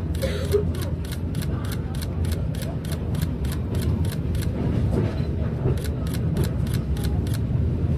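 Passenger train running, heard from inside the carriage: a steady low rumble. Over it, a rapid, evenly spaced clicking of about four ticks a second stops near the end.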